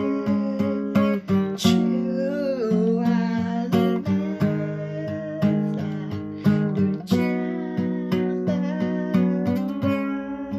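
Acoustic guitar music: a steady strummed or picked rhythm with a melody line over it that bends in pitch about two to three seconds in.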